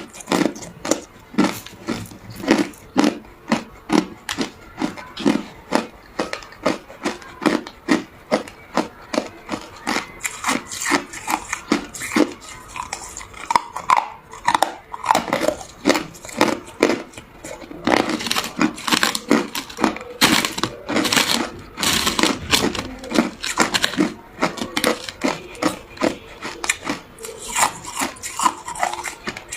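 A person chewing and crunching ice close to the microphone, with rhythmic bites about two a second. The crunching turns denser and louder in the second half.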